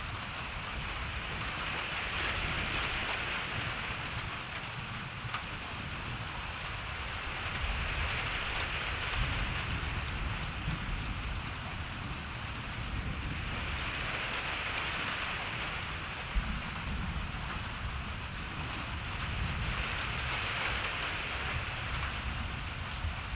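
Steady rain, its hiss swelling and easing about every six seconds, with a low rumble of distant thunder underneath and a few single louder drops ticking.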